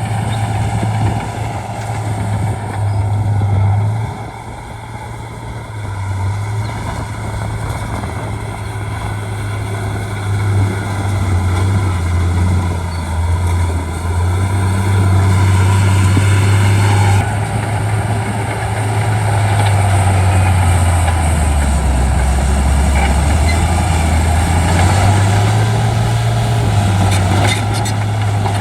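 Shantui D95 bulldozer's diesel engine running while pushing landfill, its pitch sinking and rising as the load changes. A few faint clicks near the end.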